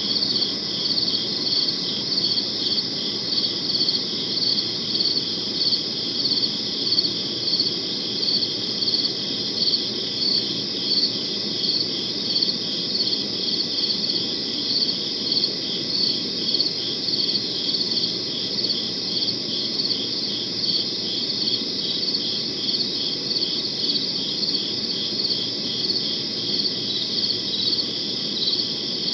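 Crickets chirping: a steady high trill with regular pulses, about one or two chirps a second, over a low, even background rush.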